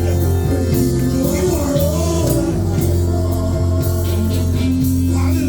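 Live gospel worship music: a band playing sustained chords over a steady bass, with singing drifting in and out.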